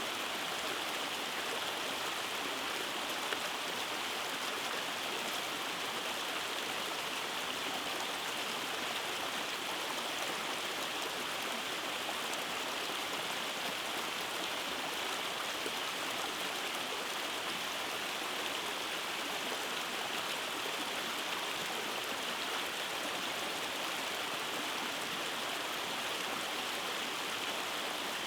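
Rainforest stream rushing over rocks and small cascades in a steady, even wash of water noise.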